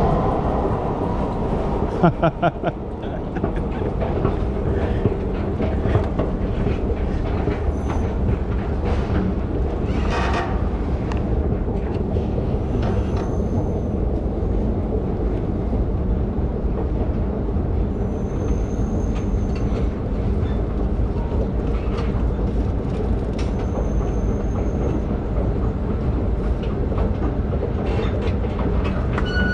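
BART train running on the track with a steady rumble of wheels on rail. There are a few sharp knocks about two seconds in, and a thin high-pitched whine that comes and goes three times.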